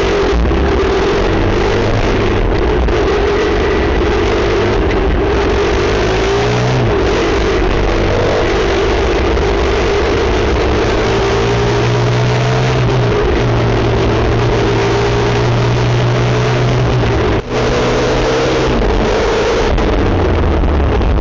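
Motorcycle engine running while riding, its pitch shifting and gliding with the throttle, over steady rushing wind and road noise. The sound drops out for an instant about three-quarters of the way through.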